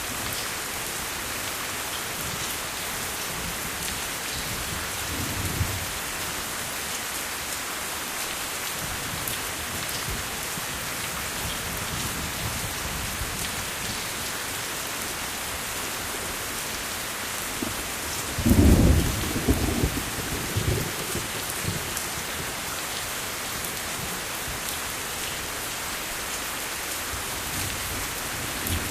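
Steady rain falling with an even hiss, and thunder rumbling low about two-thirds of the way through, with a fainter rumble near the start.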